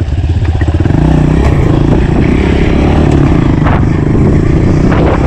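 Honda CRF125 pit bike's small single-cylinder four-stroke engine running under throttle with the exhaust tip removed, which gives it a moped-like sound. The engine note dips briefly at the start, then picks up again and runs steadily.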